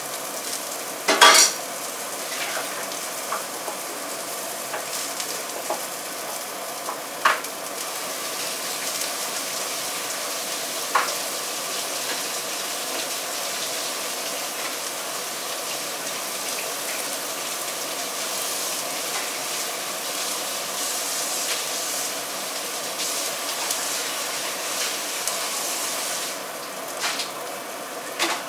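Food sizzling steadily in hot oil in a wok, with a few sharp knocks of a cooking utensil against the pan, the loudest about a second in.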